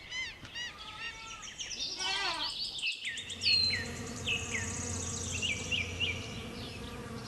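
Lamb bleating in short, high, wavering calls. After a cut about three seconds in come birds chirping over a steady low hum.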